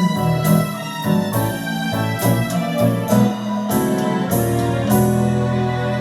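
Electric keyboard playing the closing chords of a slow blues ballad: a run of struck chords, then a final chord held from about five seconds in.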